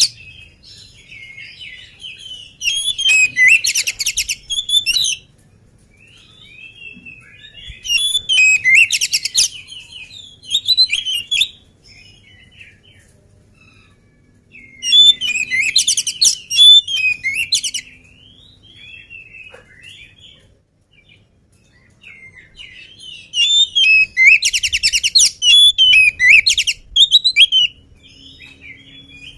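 Oriental magpie-robin (kacer) singing in four loud bursts of rapid rattling, trilled phrases a few seconds each, with softer chirps and whistles in between.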